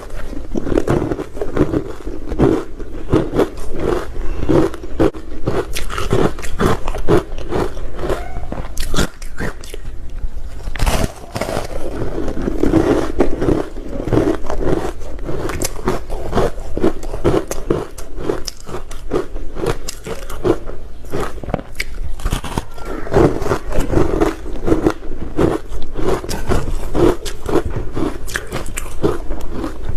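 A person biting and chewing ice close to the microphone: a dense, continuous run of crunches and crackles.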